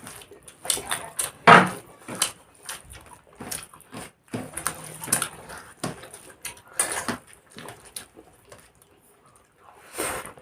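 People eating chicken and rice: irregular chewing, lip smacks and wet mouth clicks, with a louder smack about a second and a half in and another near the end.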